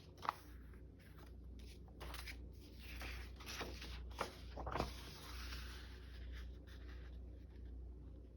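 Sheets of paper being handled and slid against one another, a faint rustling and scraping with a few short soft taps.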